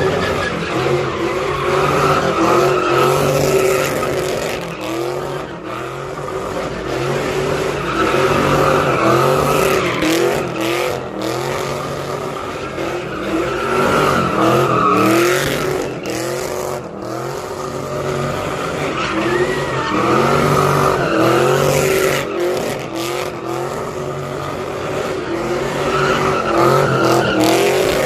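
A car doing donuts: its engine revving hard while the tyres squeal and skid. The noise swells and fades about every five to six seconds, with the engine pitch rising and falling each time.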